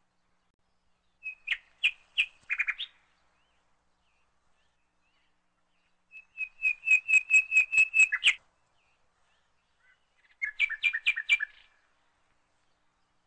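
Bird chirping: three bursts of quick repeated chirps, about six a second, each lasting one to two seconds, with silence between them.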